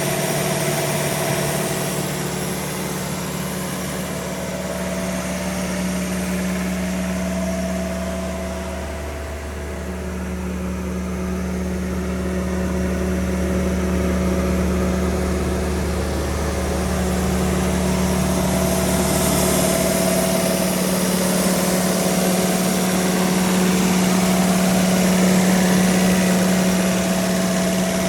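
Kaeser M 50 PE mobile compressor's Kubota V1505 T four-cylinder turbo-diesel running at a steady speed. The hum sags briefly about a third of the way in, and its deepest part drops away about two-thirds of the way through.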